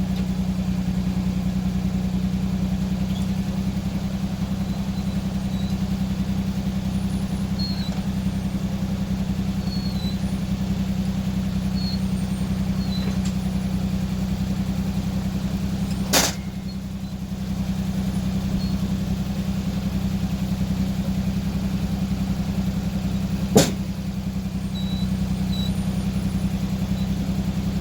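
An engine idling steadily. Two sharp clicks come past the middle, and the engine sound drops briefly after the first.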